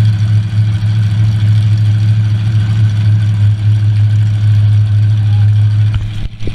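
Demolition derby car's engine idling steadily, heard from inside the stripped-out cab.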